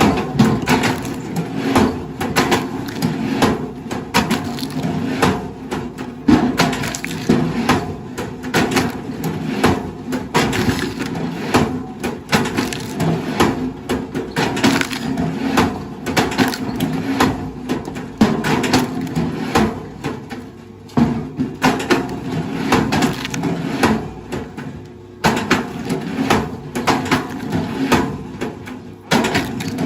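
Wood cracking and splintering in a dense, irregular run of sharp cracks, over a steady low hum.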